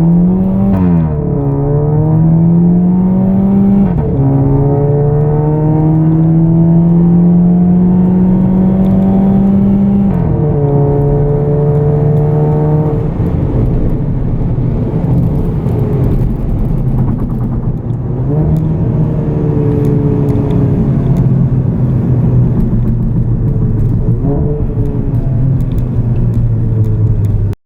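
Volkswagen Golf Mk7 1.4 TSI turbocharged four-cylinder engine running through an aftermarket full exhaust system without valves, under acceleration. The engine note rises, drops at an upshift about four seconds in, climbs again to a second shift about ten seconds in, then holds fairly steady with a couple of brief dips.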